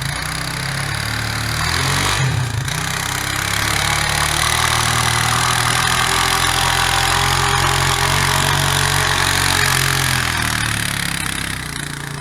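A car engine running and revving under load, loudest in the middle and easing off near the end.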